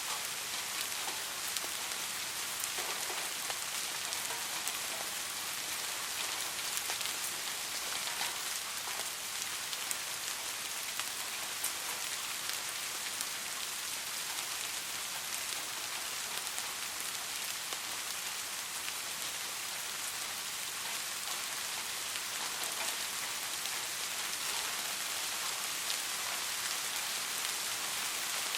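Steady soft rain, a continuous hiss with scattered individual drop ticks.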